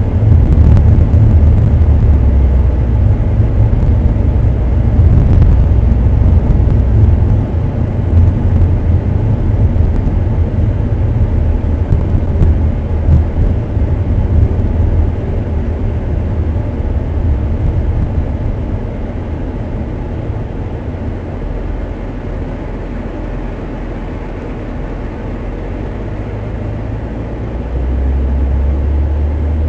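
Motor vehicle driving along a road: a steady, loud low rumble of engine and road noise that eases off past the middle and swells again near the end.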